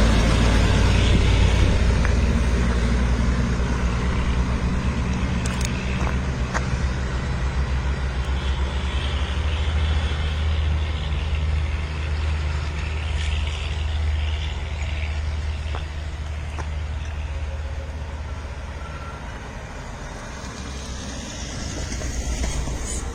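Darjeeling Himalayan Railway narrow-gauge toy train running: a steady low engine rumble with running noise that slowly fades, then swells a little near the end.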